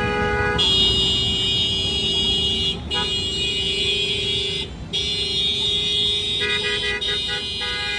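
Car horns honking in stopped traffic. One horn ends about half a second in. Another horn is then held in long blasts, broken twice by short gaps. Near the end a second horn overlaps it with a quick run of short toots.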